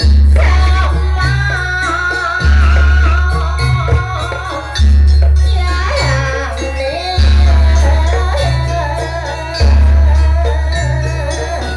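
Jaranan accompaniment music: a deep, booming low stroke about every two and a half seconds, five in all, under a wavering high melody line and rattling percussion.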